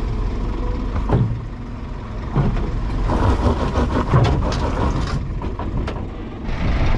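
Scania skip lorry's diesel engine running steadily at idle, with several sharp knocks about a second, two and a half and four seconds in, and a stretch of hiss-like noise in between.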